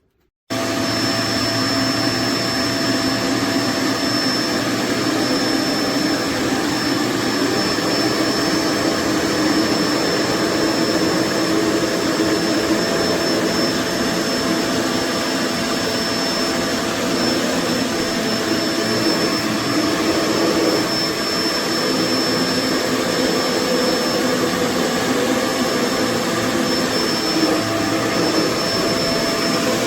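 Kenmore BU4050 bagged upright vacuum cleaner running steadily: a constant motor whine with a thin high tone over it, starting abruptly about half a second in.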